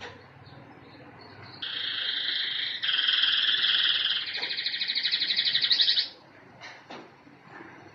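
Canary singing: a song phrase starting about a second and a half in, ending in a fast trill that grows louder before stopping sharply about six seconds in, followed by a few faint chirps.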